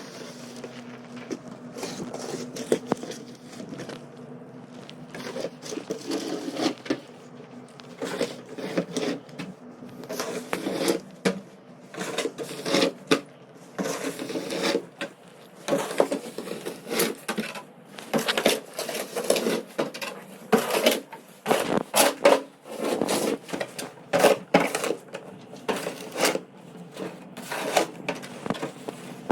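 Snow shovel scraping and knocking on pavement in quick, irregular strokes, coming faster after the first few seconds, over a steady low hum.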